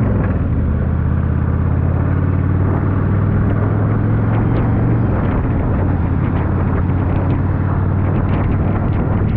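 Yamaha V-Star 1100's air-cooled V-twin engine running steadily on the move, its note dropping slightly about five seconds in.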